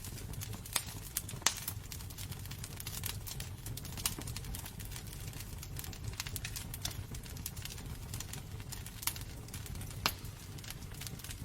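Wood fire burning in a fireplace: logs crackling with dense, irregular small clicks and a few louder pops over a low rumble of flame. The sharpest pops come about a second and a half in and again near the end.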